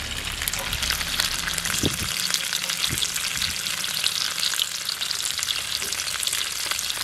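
Paneer pieces sizzling and crackling steadily as they fry in a little hot oil in a kadai, with a couple of knocks about two and three seconds in.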